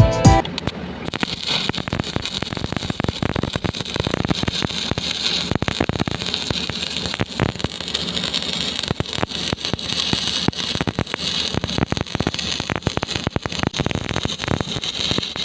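Stick (arc) welding: the electrode arc crackling steadily, a dense irregular spatter of sharp pops and hiss.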